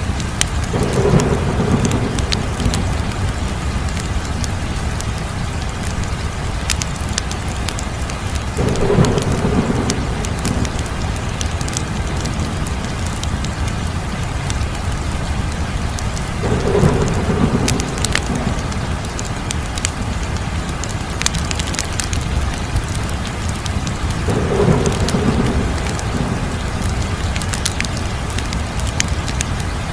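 Wood fire crackling steadily, with scattered sharp pops over a continuous low rush. A low swell of a second or two rises about every eight seconds, four times in all.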